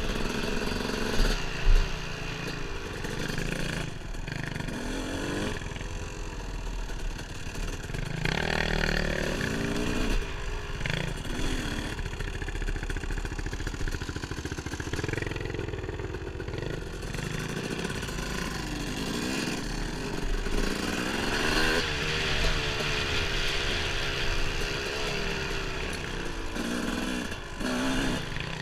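Dirt bike engine running on a trail ride, its pitch rising and falling as the throttle is opened and closed, with knocks and rattles from the bike and terrain, two sharp ones about a second and a half in.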